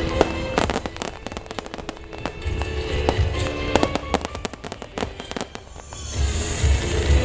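Aerial fireworks exploding in quick succession with sharp bangs and crackles, over music with a low beat. The bangs thin out about six seconds in, and the music becomes louder.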